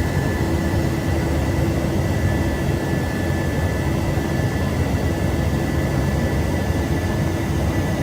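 Steady drone of aircraft engines in flight, a constant low hum with a high whine over it.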